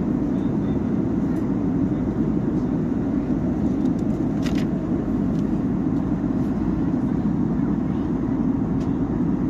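Steady engine and airflow noise inside the cabin of a jet airliner in flight, a low even drone, with one small click about halfway through.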